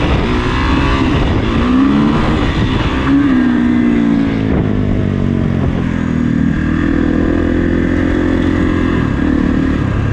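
Kawasaki KX450 dirt bike's single-cylinder four-stroke engine revving up and falling back several times. It then holds a steady pitch for about three seconds and drops off near the end.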